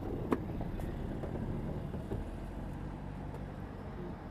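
Steady low rumble of road vehicles, with a single sharp knock just after the start.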